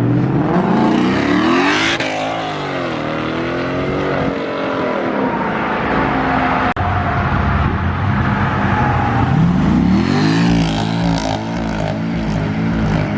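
Performance car engines revving and accelerating away, their pitch climbing and dropping several times as they rev and shift. Near the end one engine settles into an even, pulsing burble.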